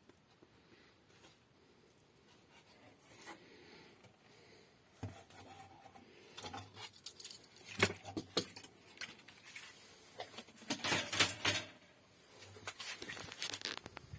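Small hard objects being handled: irregular clicks, light clatter and rustling that start about five seconds in, after a faint quiet stretch.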